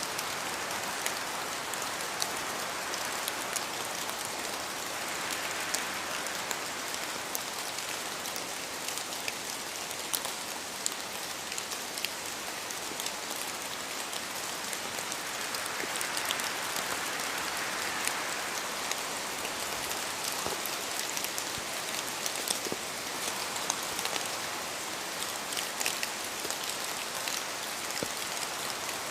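Steady rain falling in a forest, with many distinct drops pattering down from the trees. A soft rushing swells a little twice, about five seconds in and again past the middle.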